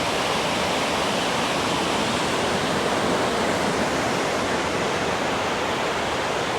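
Whitehorse Falls rushing steadily: an even, unbroken hiss of falling water.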